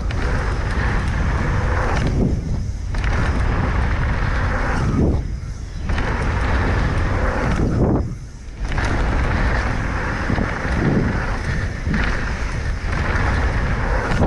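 Mountain bike riding down a dirt trail: tyres rolling and rattling over the ground, with wind rushing over the microphone. The noise dips for a moment about every three seconds.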